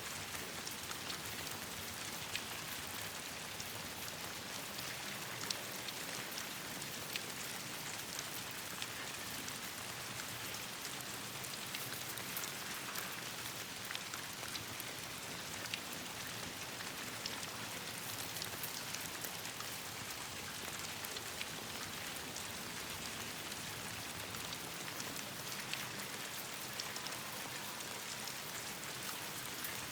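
Steady rain, an even hiss sprinkled with many small, sharp drop ticks at irregular moments.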